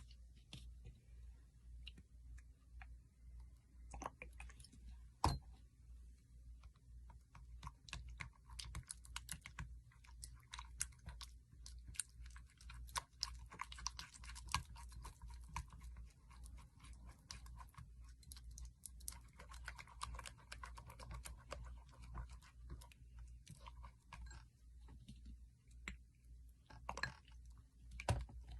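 Slime being squeezed and pressed by hand, giving a dense run of faint crackling and popping clicks that thickens after the first several seconds.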